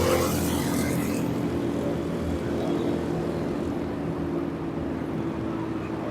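Vehicle engine running at a steady pitch on the move, with a brief rush of passing noise in the first second.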